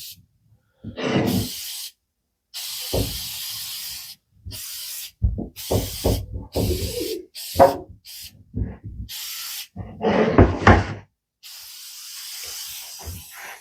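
Repeated bursts of hissing, each a second or two long and starting and stopping abruptly, alternating with knocks and clatter of objects being handled.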